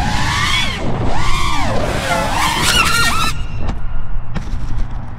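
Motors of an iFlight Nazgul5 five-inch FPV quadcopter screaming, their whine sweeping up and down several times as the throttle is punched and chopped, then cutting off suddenly about three seconds in as the quad crashes. A few faint clicks follow.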